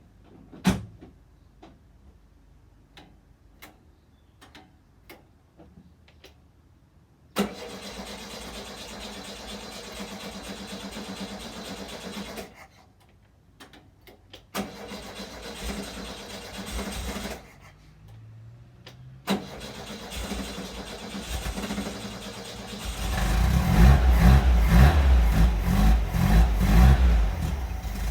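Cold start of a Vintage Speedster's engine. A few seconds of scattered clicks, then the starter cranks it in several long bursts with short pauses between them. About 23 s in it catches and runs loudly and unevenly, with blips of throttle.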